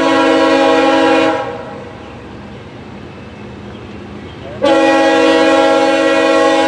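Locomotive air horn sounding two long blasts, a steady multi-note chord, on the lead unit of a CSX freight (an AC4400CW). The first blast lasts about a second and a half; the second starts about four and a half seconds in, with the train's rumble in between.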